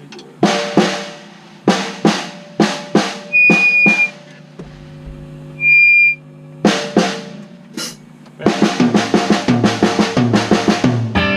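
Drum kit being played loosely, with single snare and drum hits spaced out, then a fast run of strokes, about six a second, near the end.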